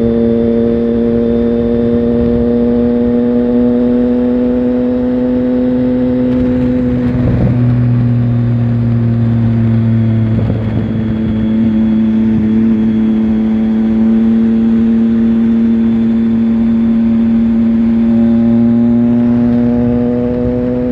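Triumph Tiger Sport 1050 motorcycle's three-cylinder engine heard from on board while riding, its steady note slowly climbing in pitch, with two brief breaks about seven and ten seconds in.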